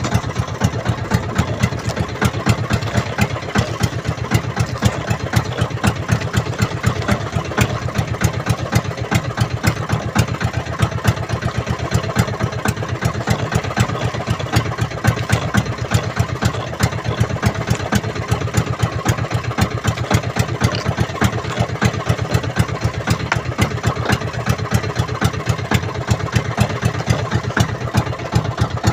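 A small fishing boat's engine running steadily at low speed, with an even, rapid chugging beat.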